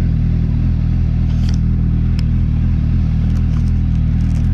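Motorcycle engine running steadily at an even pitch, with a few light ticks and clicks over it.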